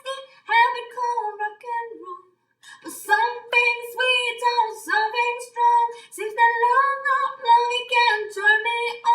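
A woman's voice singing a rock song unaccompanied, with a short pause for breath about two seconds in.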